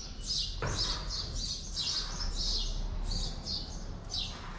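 Small birds chirping repeatedly, two or three short high chirps a second.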